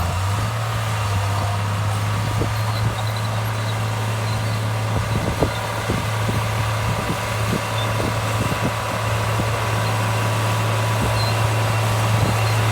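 Heavy diesel engine of earthmoving machinery running steadily at a constant low note, with scattered clanks and knocks in the middle.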